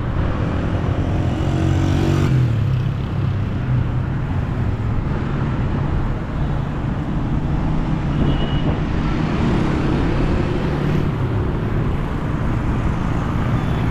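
Steady road traffic: engines of cars and other vehicles running past, with one vehicle passing close about two seconds in, its engine note rising.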